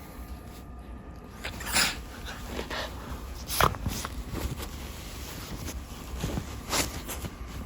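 A dog, likely the Pomeranian, sniffing and snorting, with three sharper snorts about two, three and a half and seven seconds in among softer ones.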